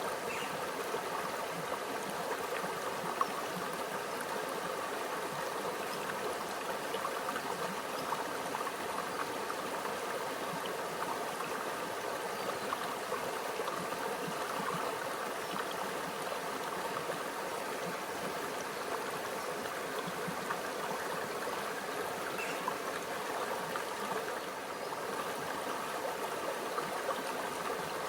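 A small, quiet stream flowing and gurgling over rocks: a steady, even babble of water with small splashes.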